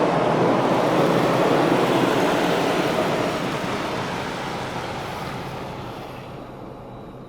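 Ryko Radius in-bay car wash spraying the car during its polish cycle, a steady rushing heard from inside the cabin, fading gradually over the last few seconds as the step winds down.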